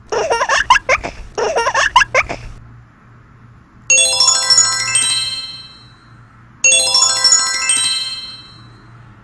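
Chime sound effects in edited intro music: two short rattling bursts in the first two and a half seconds, then two shimmering flourishes of many chime tones, struck together and dying away, about four and six and a half seconds in.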